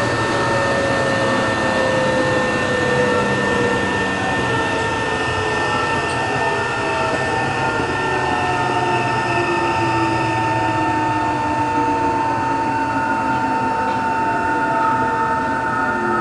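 Interior running sound of a Tokyo Metro 03 series armature-chopper train: a steady high chopper tone over rail noise, with the motor and gear whine slowly falling in pitch as the train loses speed.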